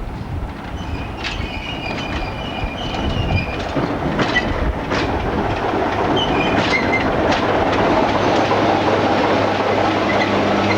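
A train running on the rails and growing louder, with sharp wheel clicks and brief high-pitched wheel squeals; a steady engine hum joins about eight seconds in.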